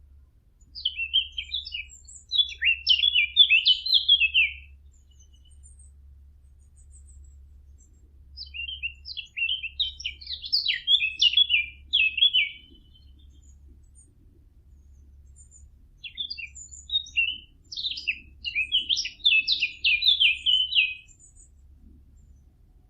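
A warbler, the 'fig bird', singing three fast, chattering warbled phrases, each about four to five seconds long, with pauses of a few seconds between them.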